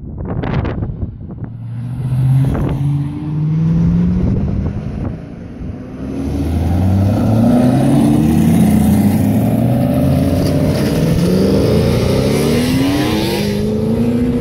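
Several V8 cars, among them a Ford Mustang GT, accelerating hard one after another with the engine note climbing in pitch through the gears. The sound grows louder and denser about six seconds in, as overlapping cars rev at once.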